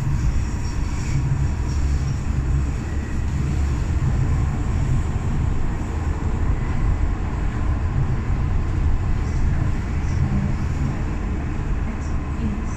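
Docklands Light Railway train running, heard from inside the carriage: a steady low rumble of wheels on the track with a faint steady whine.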